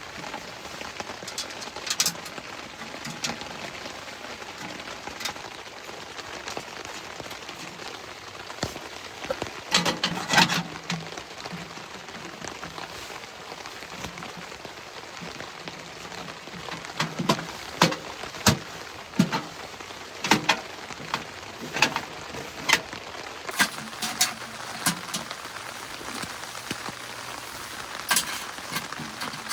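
Heavy rain pattering steadily on the tent fabric. Irregular sharp knocks and clanks of a wood stove's metal parts being fitted together come through it, a cluster about ten seconds in and a busier run in the last third.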